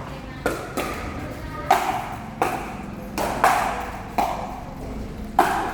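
Pickleball rally: about seven sharp, ringing pops of paddles striking the plastic ball, unevenly spaced, some of them likely the ball bouncing on the court.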